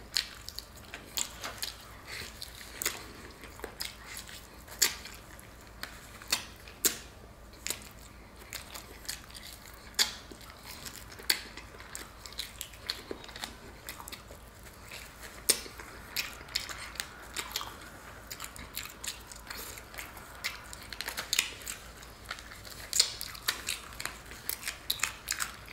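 Crunching and chewing as meat and crispy fried batter are bitten and gnawed off a fried turkey leg bone: irregular sharp crunches and mouth sounds.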